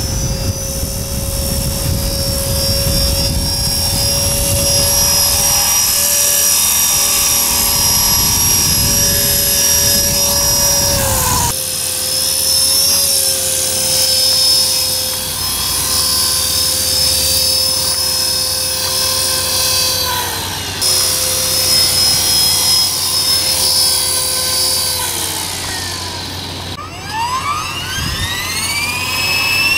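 E-flite Blade 400 electric RC helicopter flying: a steady whine from its motor and rotors, dipping in pitch a few times and rising sharply near the end. Wind buffets the microphone with a low rumble for the first several seconds.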